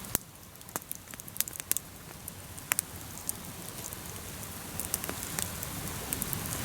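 Campfire crackling, with irregular sharp pops and snaps over a low steady hiss.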